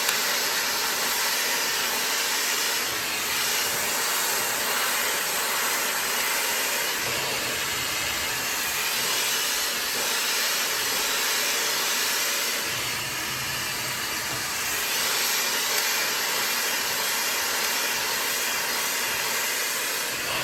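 High-speed hair dryer with a 110,000 RPM, 1400 W motor, blowing continuously through its magnetic nozzle. It gives a steady airy hiss whose low end shifts slightly now and then.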